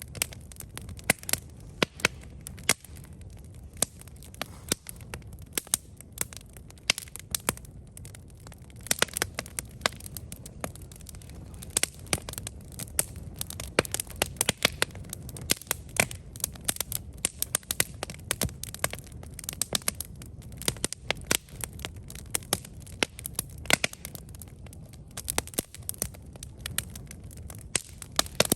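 Campfire burning, wood crackling and popping in frequent irregular sharp snaps over a steady low rumble of the flames.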